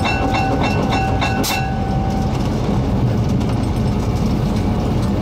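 Train running, a steady low rumble of locomotive and wheels on the rails. During the first two seconds or so a ringing tone repeats about three times a second, then stops.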